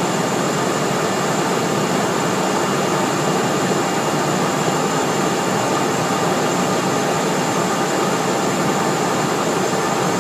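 Cessna Citation Mustang cockpit noise in flight: a steady rush of airflow and the jet's twin Pratt & Whitney PW615F turbofans, with a faint high whine held steady over it.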